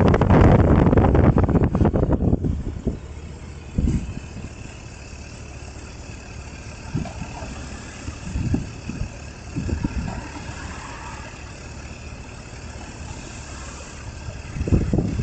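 Wind noise on the microphone dies away over the first two seconds or so, leaving a steady low engine idle with a few short bumps.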